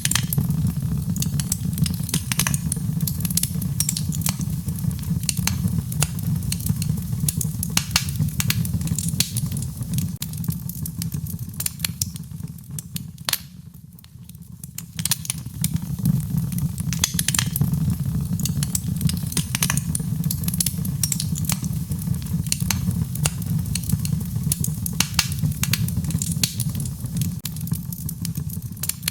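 Wood fire crackling in a fireplace: a steady low rumble with many sharp pops and snaps throughout. The whole sound drops away for about two seconds near the middle, then resumes.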